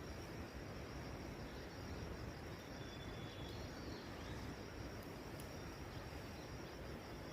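Forest ambience: insects chirping steadily in a fast, even pulse over a steady hiss, with one short high bird note about three seconds in.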